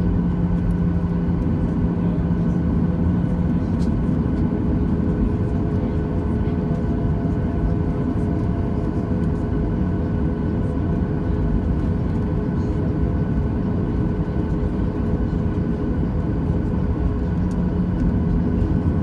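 Boeing 737-800 cabin noise with the CFM56-7B engines running steadily: an even rumble and hiss with a few constant tones. A low hum fades a few seconds in and returns near the end.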